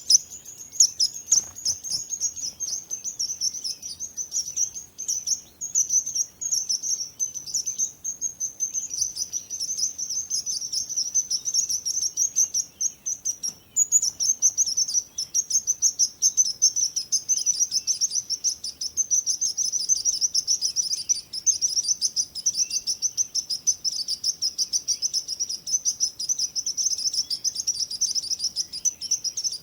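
Small birds chirping: rapid, high-pitched chirps, many a second, running without pause, with a brief break about halfway through.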